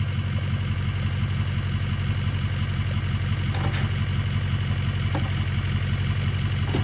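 A vehicle engine running steadily with a low, pulsing drone.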